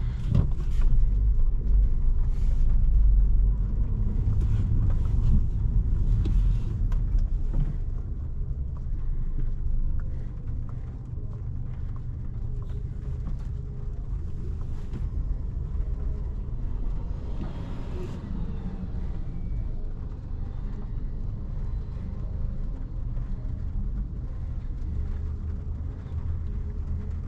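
Engine and road noise of a 2017 Volkswagen Jetta manual heard inside the cabin, a steady low rumble while driving in light rain. It eases to a lower, even level about ten seconds in as the car slows.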